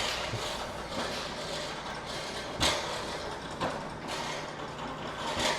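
A cart rattling as it rolls past, with a few sharp clanks; the loudest comes about two and a half seconds in.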